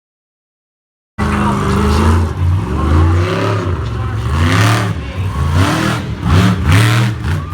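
Total silence for about the first second, then a monster truck engine revving hard, its pitch climbing and dropping again and again.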